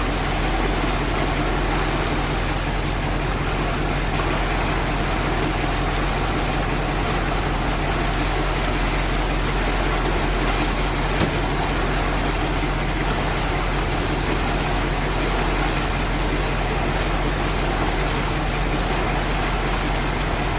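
Fishing boat's engine running steadily under way: a constant low drone with an even rush of noise over it.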